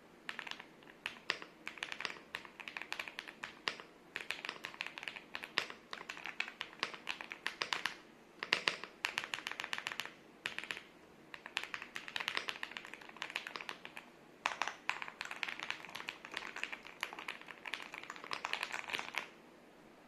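EPOMAKER Galaxy100 mechanical keyboard being typed on: quick runs of key clicks and clacks with brief pauses between them.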